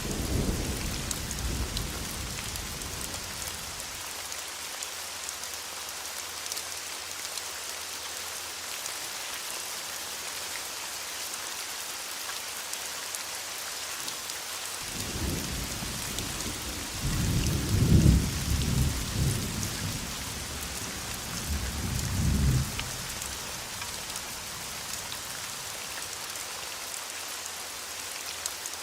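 Thunderstorm: rain falls with a steady hiss while thunder rumbles. One roll of thunder fades out in the first few seconds, and another builds about halfway through, loudest about two-thirds of the way in, with a last swell shortly after.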